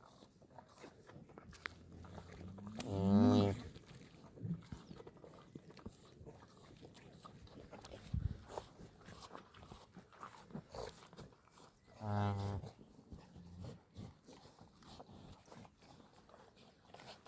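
A cow mooing twice, each call about a second long and some nine seconds apart, with faint scattered knocks in between.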